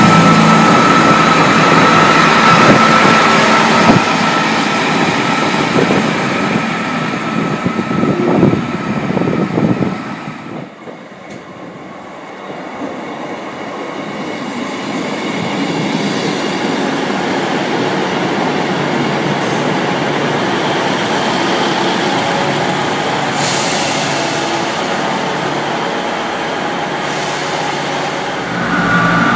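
Class 158 diesel multiple units running through a station, engines and running gear on the rails. A steady high whine sounds over the train noise for the first ten seconds. The sound then drops away suddenly, and a second train draws closer and settles into a steady run.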